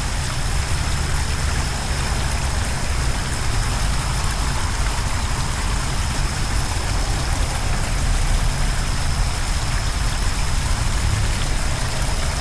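Steady rush of falling and flowing water, with a deep rumble underneath and a thin steady high tone above it.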